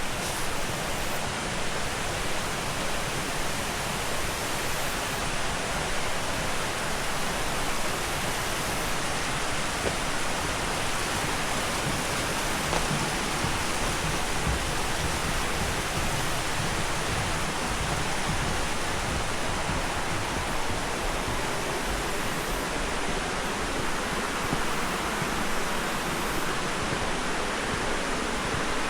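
Waterfall: a steady, even rush of falling water that holds at one level throughout.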